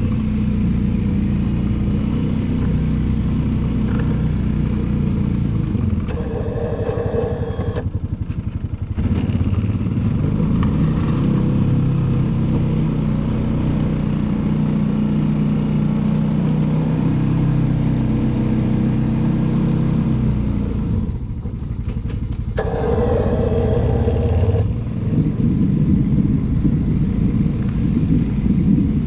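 The engine of a snow-clearing machine running steadily under load, its pitch shifting a little. Twice, about six and twenty-two seconds in, a higher-pitched sound joins it for about two seconds.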